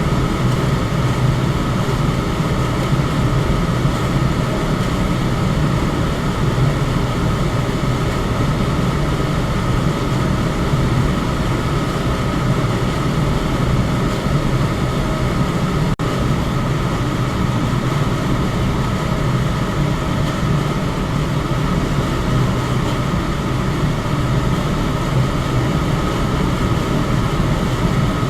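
Electric fan running steadily: a continuous rush of air, heaviest in the low range, with a faint steady hum over it.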